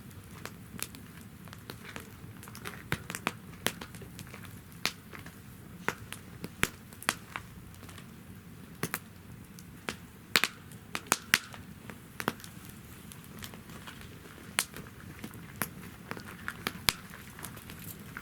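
Wood fire burning in a campfire stand, crackling with irregular sharp pops over a soft, steady hiss of flames. The pops come thickest near the middle.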